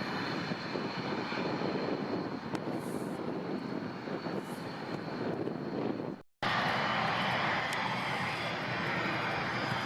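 Airliner engines running, a steady noise with a thin high whine over it. About six seconds in the sound cuts out abruptly for a moment and comes back louder and hissier.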